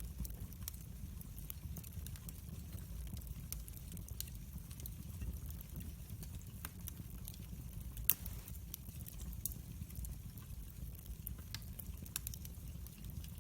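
Wood fire crackling in a fireplace: a steady low rumble of the flames with scattered small pops and snaps, and one louder pop about eight seconds in.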